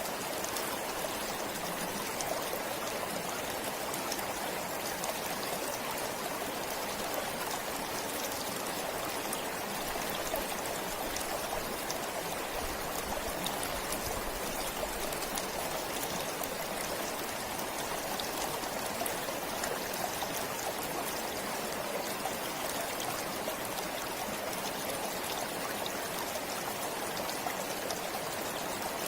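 A stream running steadily over rocks, with a constant rush and trickle.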